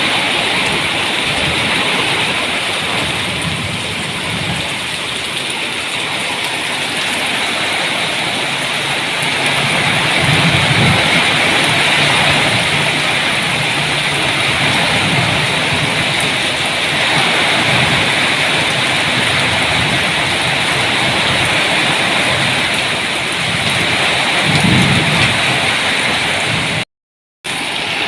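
Heavy rain pouring steadily, with low rumbles of thunder about ten seconds in and again near the end. The sound drops out completely for about half a second just before the end.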